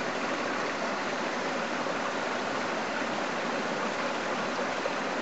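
Steady rushing of a running stream, an even wash of water noise with no breaks.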